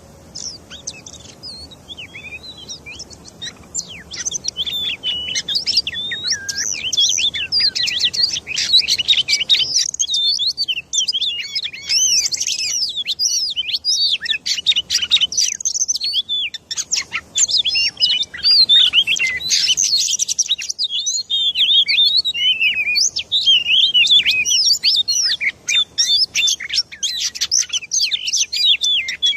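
Bird chirping in rapid, continuous, overlapping high chirps, starting faintly and growing loud within the first few seconds.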